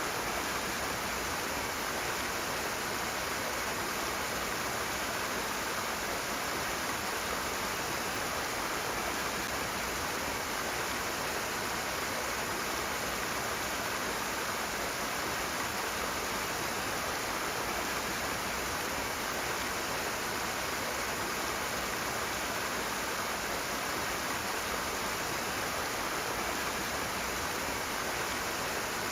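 Rushing water flowing steadily, an even hiss with no breaks or changes.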